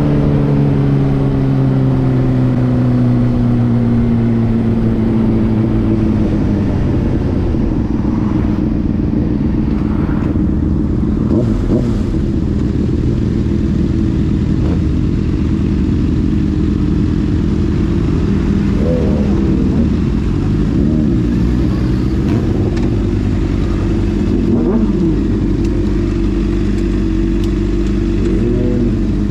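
Motorcycle engine running on the move, its pitch falling over the first several seconds as it slows, then holding steady with a few small rises and dips in revs.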